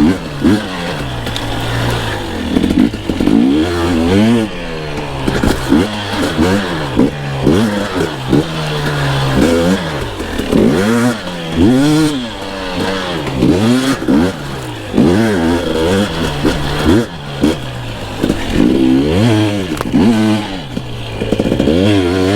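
Two-stroke enduro dirt bike engine revving up and falling back over and over, about once a second, as the throttle is worked on a technical, bumpy section.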